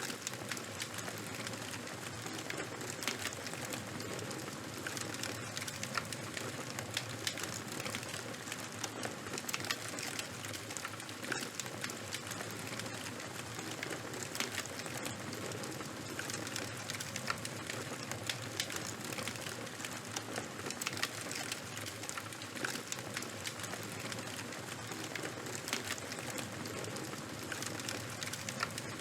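Burning fire of charcoal and wood crackling: a steady hiss with many small, irregular pops and snaps.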